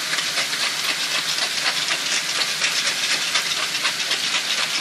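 Chicken strips, onions and capsicum sizzling in olive oil in a hot frying pan: a steady hiss with fine crackling throughout.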